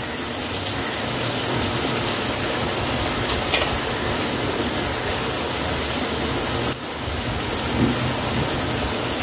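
Mushrooms and vegetables sizzling steadily in hot oil in a frying pan.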